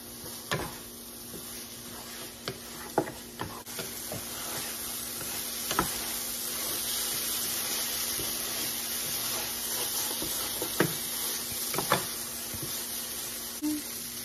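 Riced cauliflower and mixed vegetables sizzling in a large skillet as a wooden spatula stirs them, with a steady frying hiss and a few sharp knocks of the spatula against the pan.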